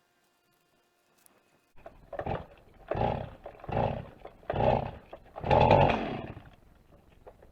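Wood being sawn by hand: five rough, rhythmic saw strokes about three-quarters of a second apart, cutting a wooden post.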